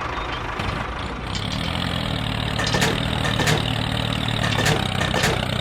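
Engine running steadily at a low, even pitch, with a few sharp clicks or knocks over it.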